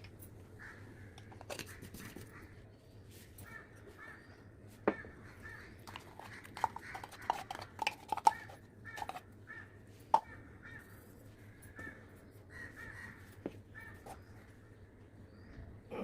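Short bird calls repeating throughout, over a steady low hum, with scattered sharp clicks and knocks that cluster through the middle and are the loudest sounds.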